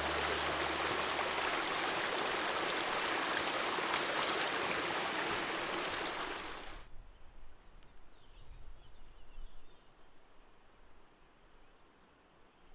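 Stream water running steadily, cutting off abruptly about seven seconds in to a quiet outdoor background with a few faint bird chirps.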